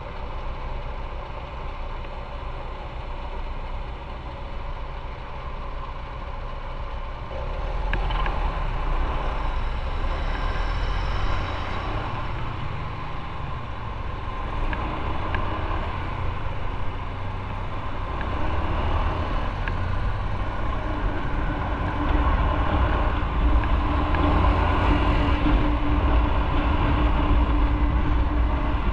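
Motorcycle running on the road, with engine rumble and wind noise. It gets louder about seven seconds in, and again about three-quarters of the way through.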